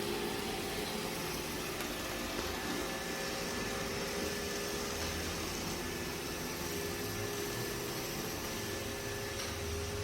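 iRobot Roomba j7+ robot vacuum running: a steady motor whir with a faint high whine over an even hiss.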